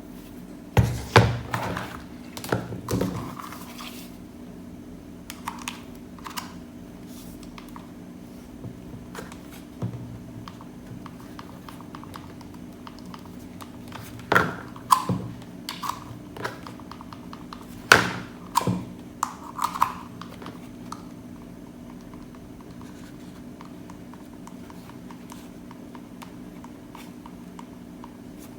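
Scattered knocks and clicks in a few short clusters, as of things being handled, over a steady low hum.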